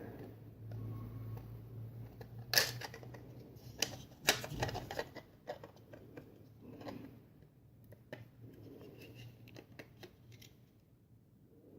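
3D-printed plastic parts being handled and pushed together by hand: a run of sharp clicks and knocks of plastic on plastic, with scraping as one piece is worked into the other's guide.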